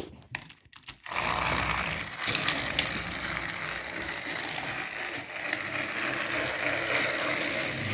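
Battery-powered Tomy toy train engines running on plastic track: small motors and gears whir steadily, starting about a second in, with a few light clicks.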